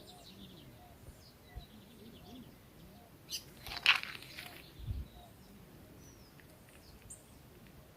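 Birds chirping and calling outdoors, short high chirps and trills scattered through. About three to four seconds in there is a brief, louder noise.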